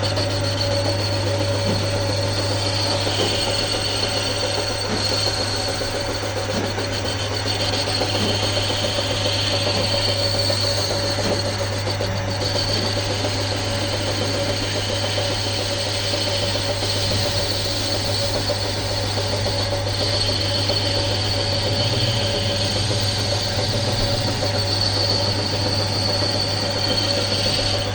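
A workshop machine tool running steadily during metal fabrication: a constant low hum under a steady high whine that swells and fades several times.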